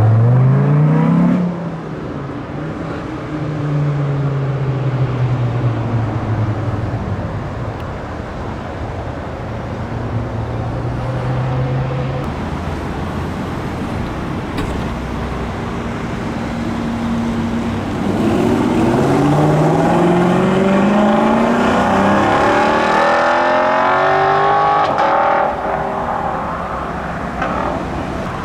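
Car engines accelerating, with their pitch climbing at the start. A steady engine note holds through the middle. In the loudest stretch, in the last third, the engines rev and rise in pitch again several times.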